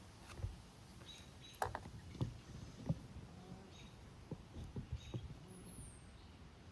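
Scattered light clicks and knocks, with a few faint short high squeaks, as the cap of a sewage sump pump is worked loose by hand.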